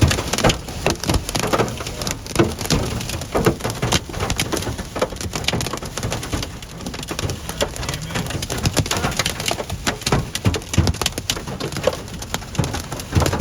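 Hail and rain pelting a vehicle's roof and windows, heard from inside the cabin: a dense, irregular clatter of hits over a low wind rumble.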